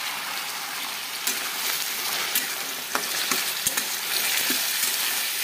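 Flat beans (chikkudukaya) sizzling in hot oil with fried onions in a stainless-steel kadai. A steel spatula stirs them and clicks and scrapes against the pan every second or so.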